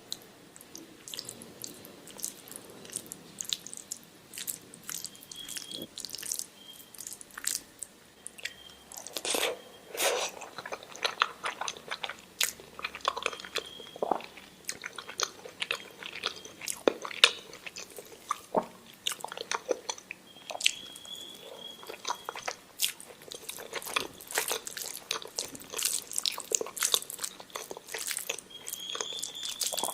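Close-up mouth eating sounds of a woman chewing and biting into omelette and rice, with many irregular wet clicks and smacks that come thicker in the second half.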